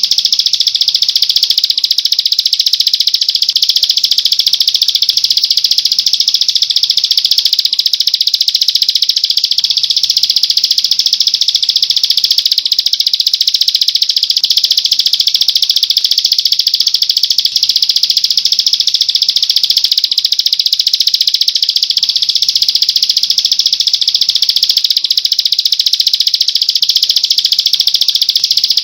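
A small songbird's rapid, high-pitched rattling trill, held steady without a break.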